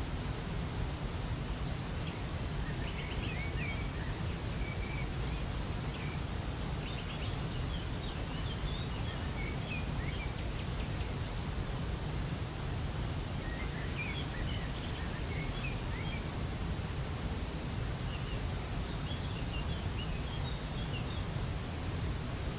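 Steady rushing of a waterfall, with small birds chirping in short scattered bursts over it, in several clusters with brief lulls between.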